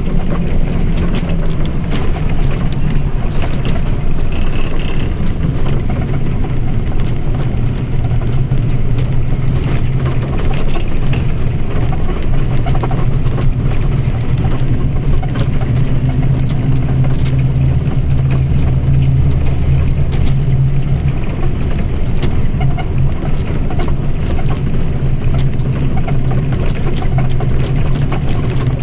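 Mercedes-Benz OF-1722M bus running, a steady loud low drone from its engine and drivetrain with no big changes in speed.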